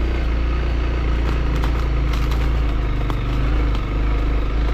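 Motorcycle engine running steadily at low speed, with a few light clicks and knocks about a second or two in.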